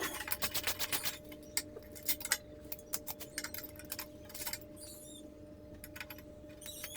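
Small metal hitch parts clinking and tapping as bushings and bolts are handled and fitted, a run of light irregular clicks that thins out in the second half, over a faint steady hum.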